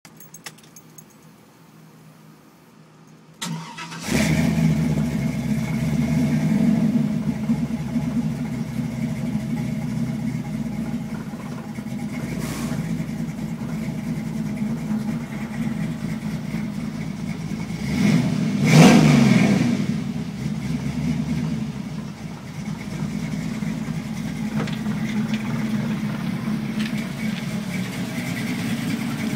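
Chevrolet 5.3-litre V8 swapped into a 1988 Chevy S-10, heard from inside the cab: the starter cranks briefly about three seconds in, the engine catches and runs at idle, then one throttle blip a little past halfway rises and falls before it settles back to idle. The engine is running on a new tune for 39-lb injectors.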